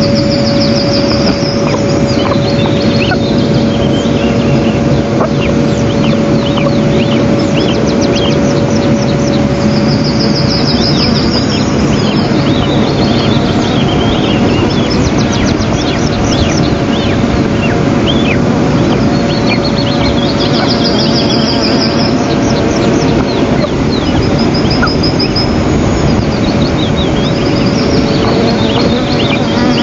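High-pitched bird calls in short repeated series, coming several times, over a loud steady hiss and a constant electrical hum from the nest-camera microphone.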